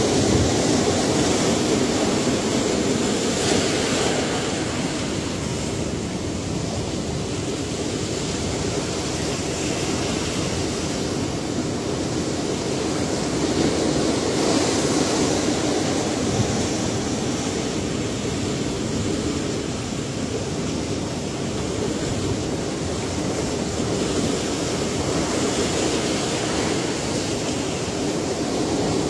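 Ocean surf: a continuous wash of breaking waves that swells and eases gently every several seconds.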